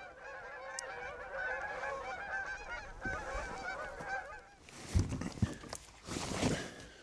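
A flock of geese honking, many overlapping calls for about four and a half seconds, then fading out. Near the end come a thump and some rustling.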